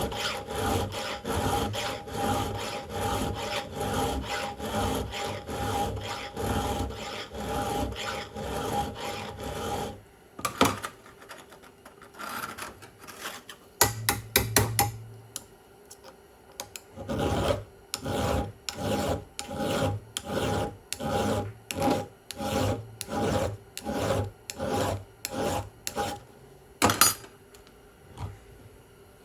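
Hand file stroking across chainsaw chain cutters held in a sharpening jig, with even rasping strokes about two to three a second. About ten seconds in the filing stops for a few scattered clicks and knocks. It resumes near the middle, and one sharper click comes near the end.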